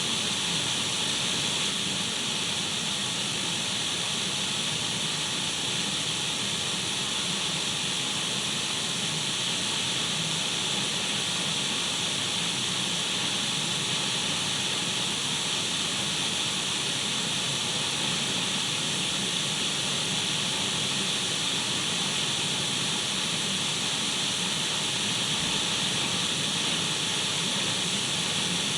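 Steady radio static: an even hiss of untuned radio noise, brightest in the upper range, with no changes.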